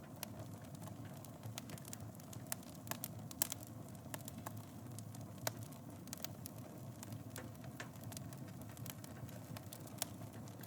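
Fireplace fire crackling: a steady low rumble of flame under many small sharp crackles, with a few louder pops, the loudest about three and a half seconds in.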